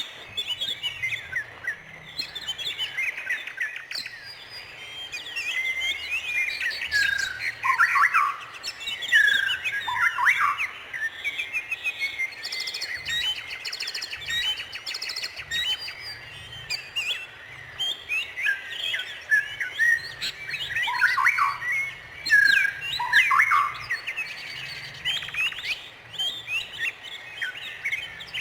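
Several birds chirping and singing at once, overlapping trills and quick falling notes in a dense chorus.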